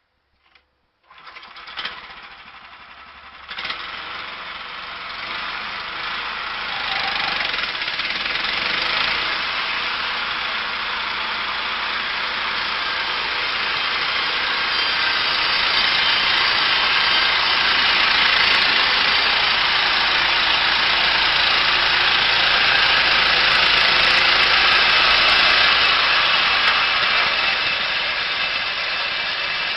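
A machine engine starts about a second in and runs steadily, growing louder over the first half and then holding level.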